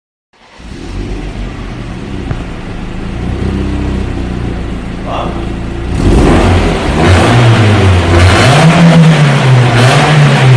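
BMW E30 1.8-litre four-cylinder engine through its stock exhaust, idling steadily, then about six seconds in getting louder as it is revved up and down a few times.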